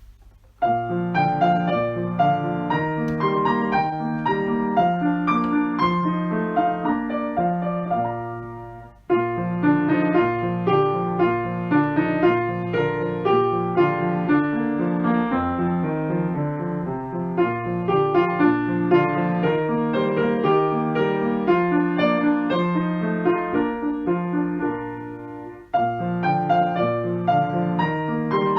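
Background piano music, a gentle melody over held chords, fading briefly and starting a new phrase twice, about a third of the way in and near the end.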